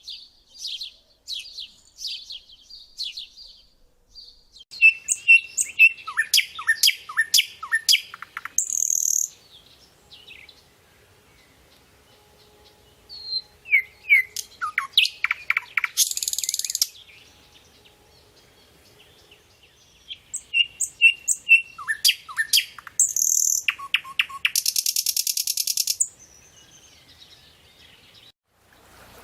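A songbird singing, repeating one phrase three times, about eight seconds apart. Each phrase is a run of quick, sharp down-slurred notes that ends in a high buzzy trill.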